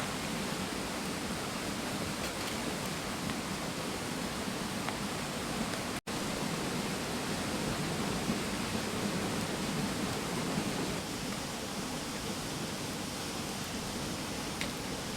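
Mountain stream running over rocks: a steady rushing of water. It drops out for an instant about six seconds in.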